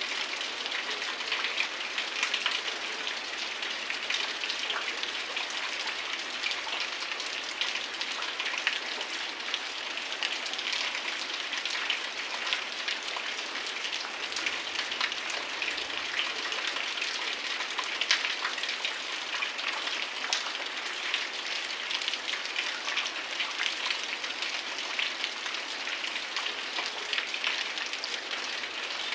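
Heavy rain falling steadily, a dense hiss of rain with many sharp individual drop hits throughout.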